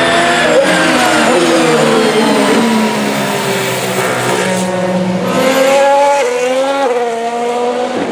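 Formula 1 cars' 1.6-litre turbocharged V6 hybrid engines running at speed past the track edge. Their pitch falls in the first second, then climbs in steps through upshifts midway and dips again near the end.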